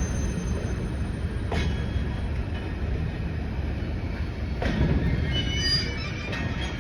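A train running along the track: a steady low rumble with two sharp knocks, one about a second and a half in and one near five seconds, and a brief high wheel squeal just after the second.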